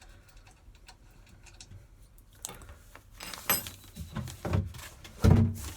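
Scattered metallic clicks and knocks from handling tools and fittings in a cramped boat engine bay, starting about two and a half seconds in. A heavier thump a little after five seconds is the loudest.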